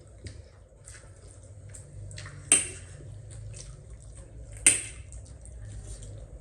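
Close-up eating sounds of instant noodles: many small wet clicks and smacks, with two sharp, loud clicks about two seconds apart.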